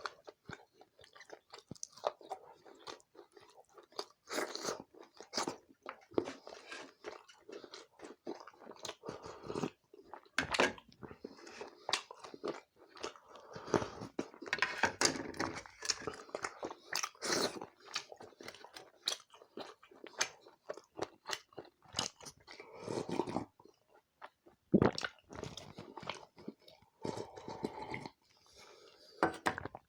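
Close-miked chewing and biting of a meal of rice, roti and dry chicken curry with gravy: irregular wet smacks, crunches and mouth clicks.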